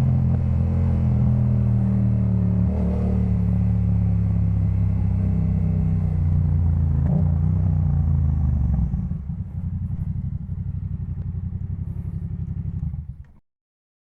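Yamaha MT-07's 689 cc parallel-twin engine running through a Jeskap K4 full exhaust, holding steady revs. About nine seconds in it drops to a quieter, choppier low pulse, then the sound cuts off abruptly near the end.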